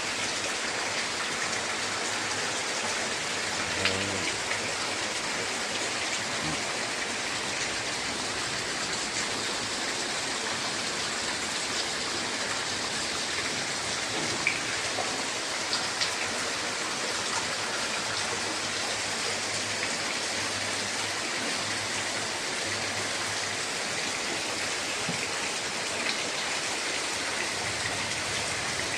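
Steady rain falling: a dense, even hiss with a few louder drop taps scattered through it.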